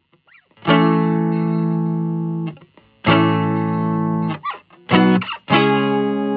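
Electric guitar, a G&L Legacy USA on Alnico V single-coil pickups, played through a Hiwatt Custom 20 valve combo amp: three chords each struck and left ringing for about two seconds before being damped, with quick short strums between the second and third.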